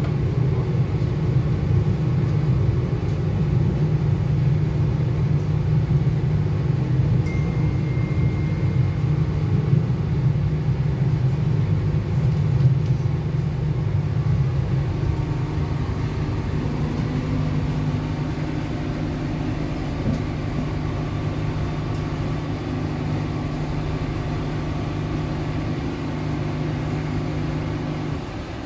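Steady low rumble of a Northern Ireland Railways Class 4000 diesel multiple unit heard from inside the carriage: engine and wheels on the track at speed. It eases off gradually over the second half as the train slows.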